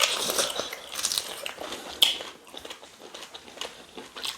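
Close-up mouth sounds of eating cow tail pepper soup: wet chewing and biting with irregular smacks and clicks, a sharper click about two seconds in.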